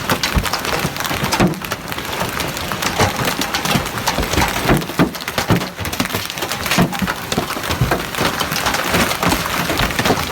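Hailstones pelting a car in a hailstorm: a dense, irregular clatter of hard hits.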